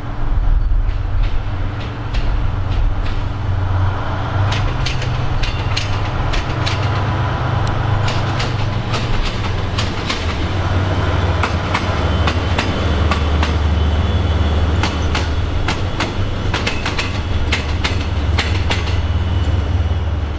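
DF200 diesel-electric locomotive's diesel engine running loud and steady while the locomotive moves slowly in shunting, its note shifting a few times. From about halfway through, wheels clack repeatedly over rail joints and points.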